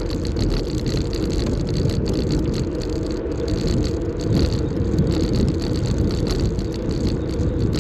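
Steady rumble of wind on the microphone and tyre noise while riding an electric bicycle along a road.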